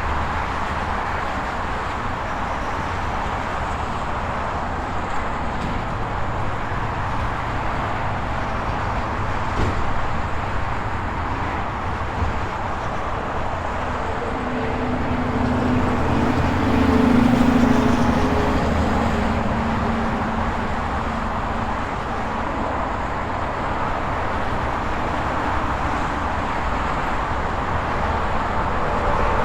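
Steady highway traffic noise from passing vehicles. About halfway through, a heavy vehicle's engine drone swells and peaks as it passes close, then fades.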